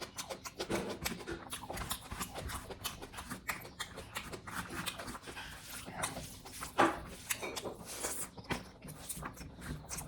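Close-miked chewing of pork curry and rice: a dense run of quick, wet mouth clicks and lip smacks, with one louder smack about two-thirds of the way through.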